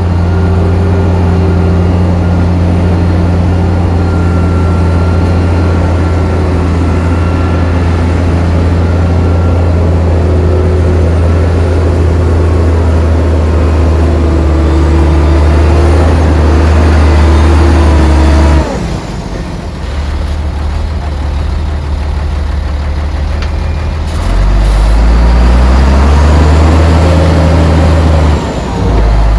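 Heavy diesel engine of earthmoving machinery running hard at steady revs, then dropping off suddenly after about eighteen seconds. It runs quieter for a few seconds and then revs up again with a rising pitch.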